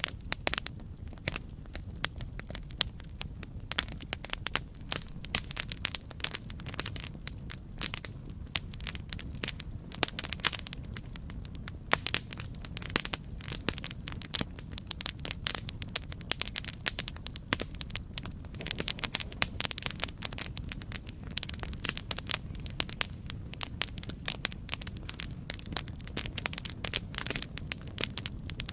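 Campfire burning with a steady low rumble and dense, irregular crackles and pops from the burning wood.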